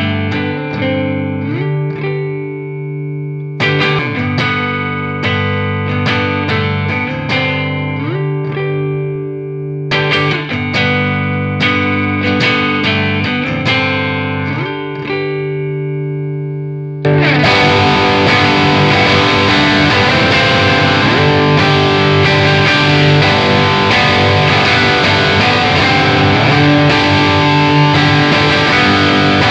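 Electric guitar, a Gibson Custom Shop Les Paul with PAF-style humbucker pickups, played through an amp. A cleaner picked phrase of ringing notes and chords is played three times. About seventeen seconds in it switches abruptly to a louder, heavily distorted passage.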